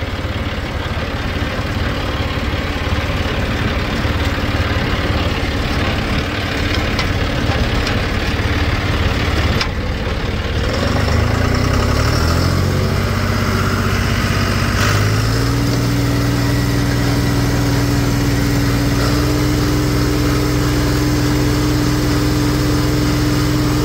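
Tractor engine running, its pitch climbing over a few seconds about halfway through and then holding steady at a higher speed as it is brought up to speed to drive the hay baler.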